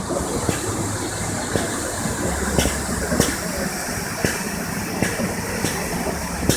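Large bonfire burning, a steady rushing noise with irregular sharp crackles and pops.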